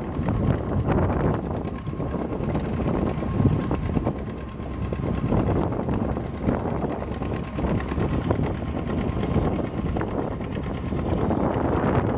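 Antique farm tractor engine running hard under load while pulling a weight sled in a tractor pull.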